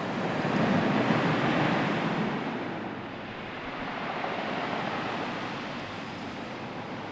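Sea waves surging and washing back, one larger wave swelling up about a second in and a smaller one following around four to five seconds in.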